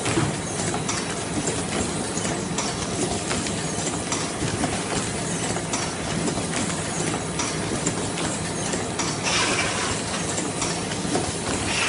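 Wet-wipe lid applicator machine running: a continuous mechanical clatter of clicks and knocks, with a short hiss about nine seconds in.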